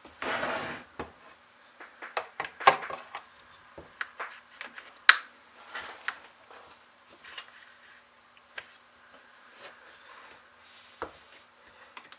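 Scattered clicks, taps and rubbing as small chainsaw parts are handled and a replacement fuel line is worked back into a Stihl 021 chainsaw, with a short scraping rub at the start and a brief hiss near the end.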